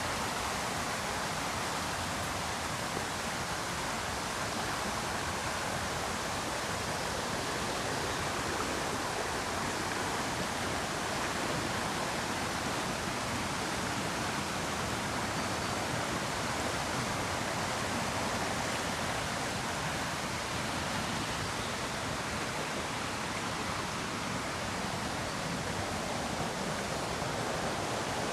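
River rapids rushing: a steady, even roar of white water that does not change.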